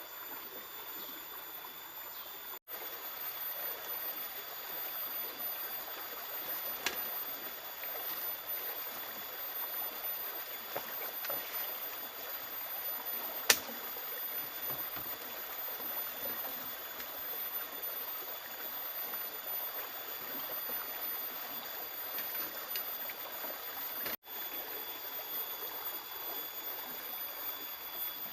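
River water rushing steadily over the riverbed, with a few thin, steady high-pitched tones above it. The sound drops out briefly twice, and there is one sharp click about halfway through.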